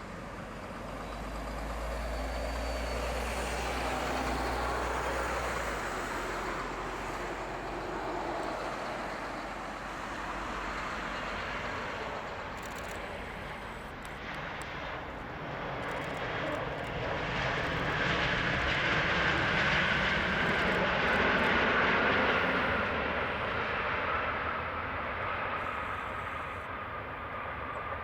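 Airbus A321's IAE V2500 turbofan engines during landing: a steady jet rumble and rush that swells to its loudest about two thirds of the way through, with a thin whine slowly falling in pitch toward the end.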